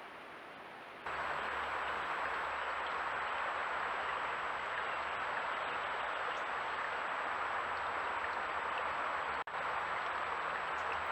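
Steady rushing of river water, with a faint high steady tone over it. It jumps louder about a second in and drops out for a moment near the end.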